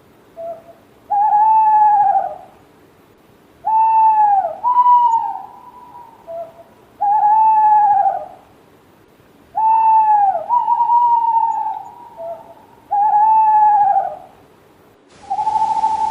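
Owl hooting: a series of pitched hoots that each rise and then fall, repeating about every three seconds, sometimes two in quick succession, with short, softer low notes in between. Near the end a different, steady held tone with a hiss behind it abruptly takes over.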